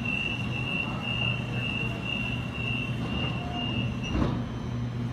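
Waratah A-set electric train standing at the platform with a steady low hum, while a high beeping tone repeats about three times a second for about four seconds: the door-closing warning before departure. A short thud about four seconds in.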